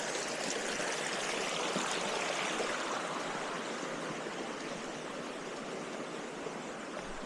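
Steady rush of water from a cascading stream at a waterfall.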